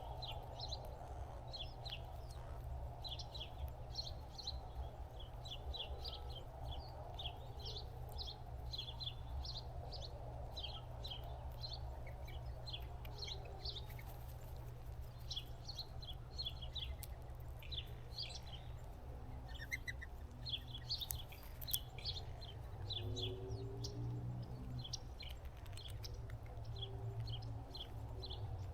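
Birds chirping continuously: many quick, high chirps, several a second, over a steady low hum.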